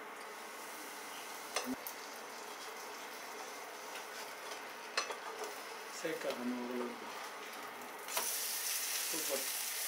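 Moong dal dosa batter sizzling on a hot pan, with a few sharp clicks and knocks as the lid comes off and a wooden spatula works under the dosa. The sizzle grows louder and brighter about eight seconds in.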